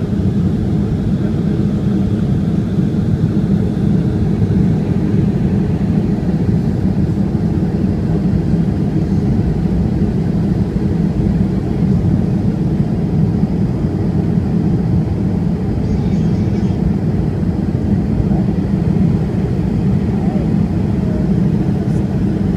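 Steady low rumble of a Boeing 757-200 heard from inside the passenger cabin in flight: engine and airflow noise with no distinct events.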